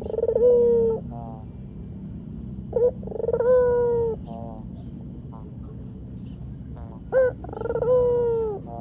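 White Barbary dove (puter) cooing: three calls about three and a half seconds apart, each a short note followed by a long rolling coo of about a second that dips slightly in pitch at its end.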